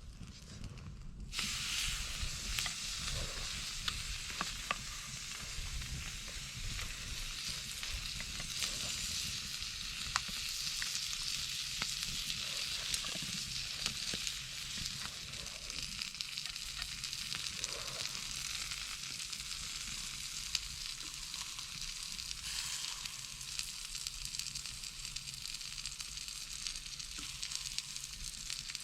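Venison spare ribs sizzling over charcoal on a shichirin grill: a steady hiss with scattered small crackles, starting abruptly about a second in.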